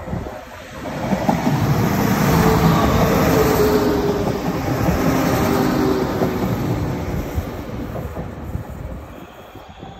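Transport for Wales diesel multiple unit passing close by: the engine note and the wheels on the rails build up about a second in, peak for a few seconds as the carriages go past, then fade as the train moves away.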